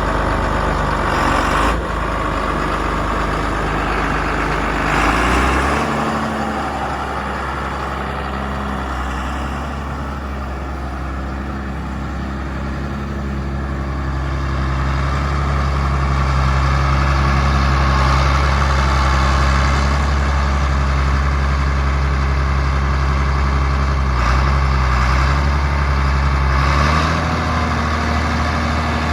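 A 2001 John Deere 8310 tractor's diesel engine running steadily at low revs. Its engine speed steps up slightly about six seconds in and again near the end.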